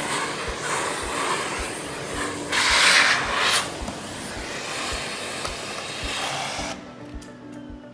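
Bagless Miele Blizzard vacuum cleaner running, with a rushing hiss of suction as a nozzle or brush rubs over a surface. The hiss swells about two and a half seconds in and stops about seven seconds in. Background music with a steady beat plays underneath.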